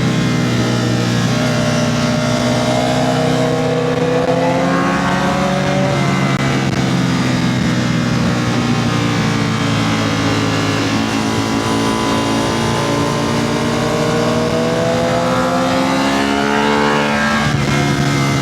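Motorcycle engine on a fast ride, revving through the gears. Its pitch climbs under acceleration, drops sharply about six seconds in, sags lower through the middle, then climbs again and drops near the end.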